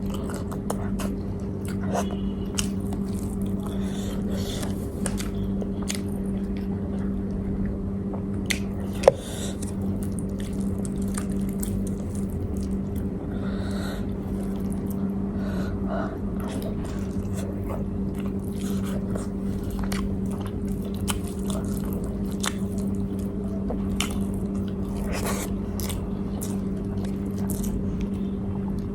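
A person chewing and biting food close to the microphone, with small wet clicks and crunches, over a steady low hum. A single sharp click stands out about nine seconds in.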